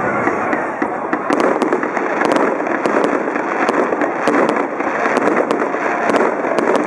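Fireworks going off in quick succession: a dense, continuous crackling with many sharp pops.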